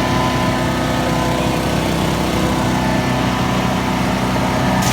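Champion 224 cc gas wood chipper-shredder's engine running steadily at speed, with no branches going through it.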